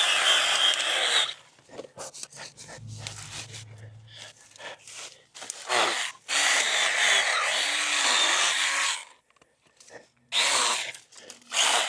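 Battery-powered Stihl mini pruning chainsaw cutting into brush and branches in bursts: one of about a second and a half at the start, a longer one of about three seconds in the middle, and two short ones near the end.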